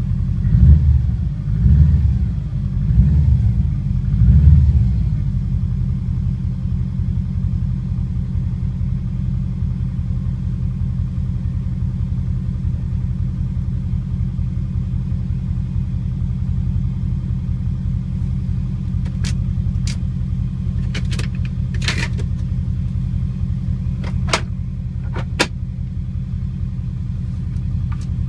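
Subaru Impreza's flat-four boxer engine idling after a cold start, with four quick blips of the throttle in the first five seconds, then settling to a steady idle. A few sharp clicks sound over the idle in the second half.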